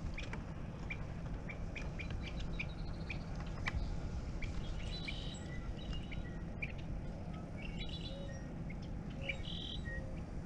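Small birds chirping, short calls over and over, in clusters about every few seconds, over a steady low rumble.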